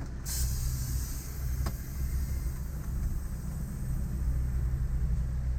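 HGV lorry's diesel engine idling steadily with a low hum, with a short hiss just after the start and a single light click a little later.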